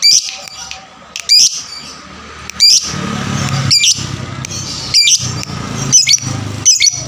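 Lovebird giving short, sharp, high calls repeated about once a second, seven in a row, over a low background rumble that swells in the middle. This is a bait call of a fighting lovebird, used to set other lovebirds calling.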